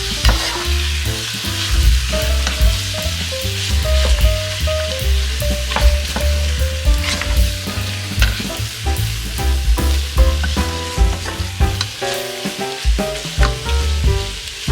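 Pork sizzling as it is sautéed in a pan, with a spatula scraping and clacking against the pan at irregular moments while it is stirred. Background music with a bass line plays under it.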